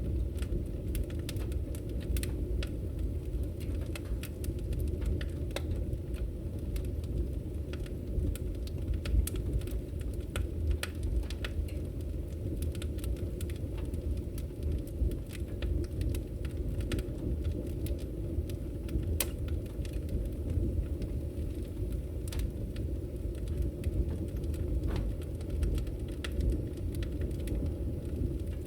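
Logs burning in a fireplace: a steady low rumble of flames with frequent, irregular crackles and pops.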